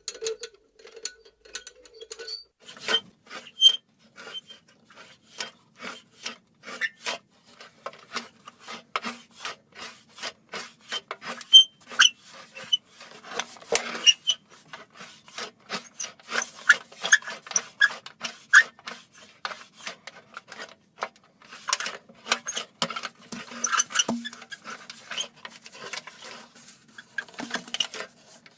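Small metal lantern being shaken and moved, its metal parts squeaking and rattling in a dense run of quick, irregular clicks.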